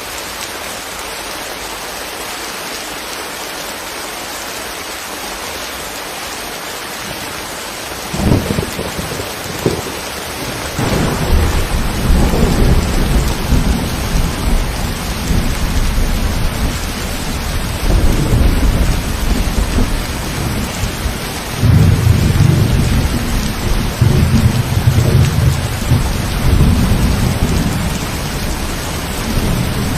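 Steady rain falling, then a thunderstorm breaks in: a sharp thunderclap about eight seconds in and another near ten seconds, followed by low thunder rolling on over the rain, swelling several times.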